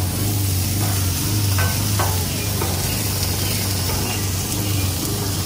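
Diced sweet onions sizzling in oil on a Blackstone flat-top griddle, with a metal spatula scraping and tapping on the steel as they are spread out, a few sharper scrapes about a second and a half to two seconds in. A steady low hum runs underneath.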